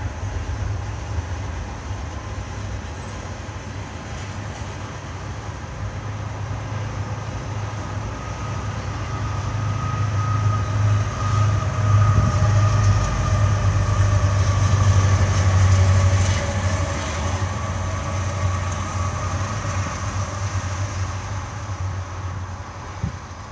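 Diesel-hauled BNSF intermodal freight train passing: a steady low rumble of locomotives and rolling cars. It grows louder from about ten seconds in, peaks around twelve to sixteen seconds with some faint held tones, then eases off.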